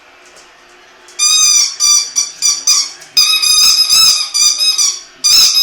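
Jack Russell terrier making loud, high-pitched wavering squeals, beginning about a second in as a run of short cries and then becoming longer drawn-out ones, with a brief pause near the end.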